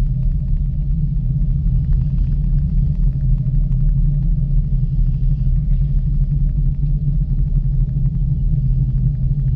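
Steady low rumble of a ropeway gondola in motion, with a few faint irregular ticks over it.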